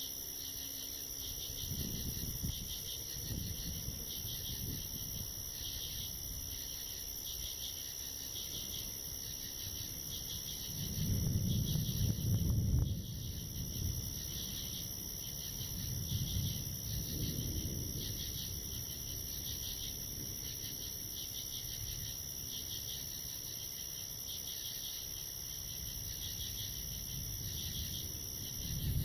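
Night insects chirping in a steady, pulsing chorus while distant thunder rumbles low several times, loudest about eleven to thirteen seconds in.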